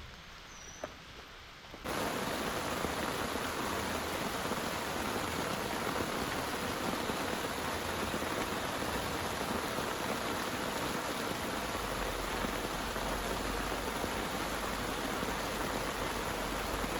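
Heavy rain pouring steadily, cutting in abruptly about two seconds in after a quieter stretch with a few clicks and a brief high chirp. A low rumble joins underneath in the last few seconds.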